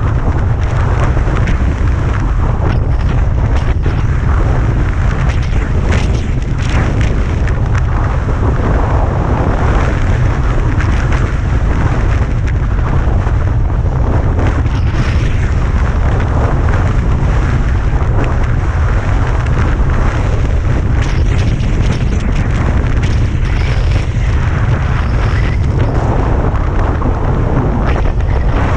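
Gusty wind in a blizzard buffeting the microphone, a loud continuous rumble.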